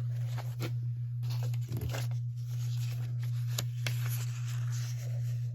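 Sheets of old paper being handled and shuffled, with scattered crisp rustles and a few short clicks, over a steady low hum.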